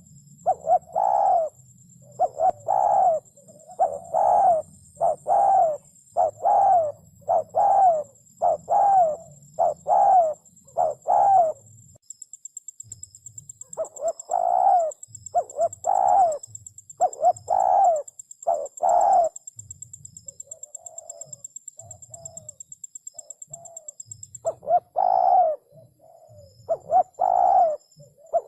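Spotted dove cooing: repeated low coos in phrases, with a short break about twelve seconds in and a few softer coos later on.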